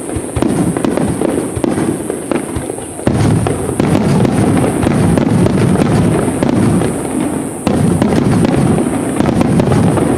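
Aerial fireworks bursting in rapid succession, a continuous barrage of booms and crackles, with sudden heavier volleys about three seconds in and again just before eight seconds.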